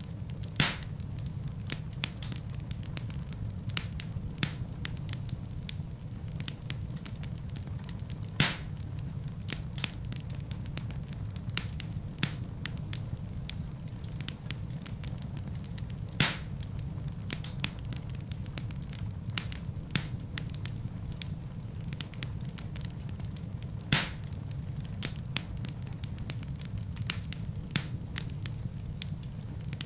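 Fireplace fire crackling: a steady low rumble of flames with many small ticks and a loud sharp pop about every eight seconds.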